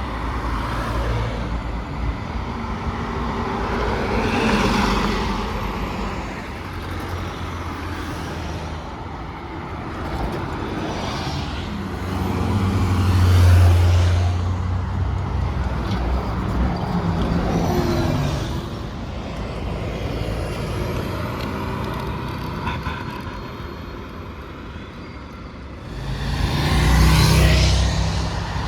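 Street traffic with large vehicles, likely city buses, passing one after another. Each pass swells in engine hum and road noise and then fades, with the loudest passes about four seconds in, midway and near the end.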